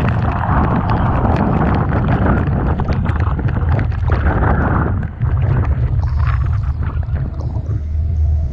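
Typhoon wind buffeting the microphone in a constant low rumble over the wash of rough, storm-surging sea, with many short sharp spatters of sea spray striking.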